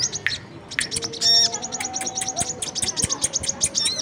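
Bird-lure call of sogon mixed with kolibri kelapa (brown-throated sunbird): rapid high-pitched chirps and twittering trills. There is a brief lull about half a second in and a louder burst of calls near a second and a half.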